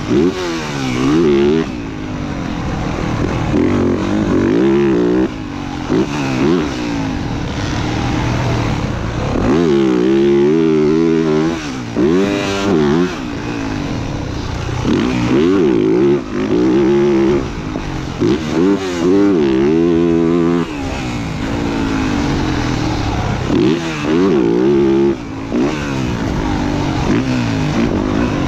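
Motocross bike engine ridden hard around a dirt track: the pitch rises again and again as it accelerates, then drops away each time the throttle is rolled off.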